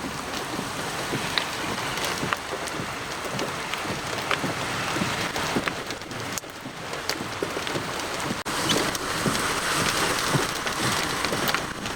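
Steady rain falling, with scattered sharp ticks of individual drops striking.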